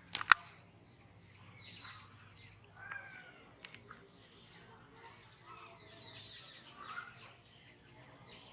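Birds chirping in short, scattered calls, busiest a little before the end. A single sharp click just after the start is the loudest sound.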